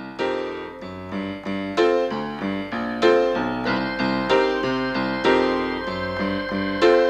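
Background music: solo piano playing a melody of struck notes that each ring and fade, several notes a second.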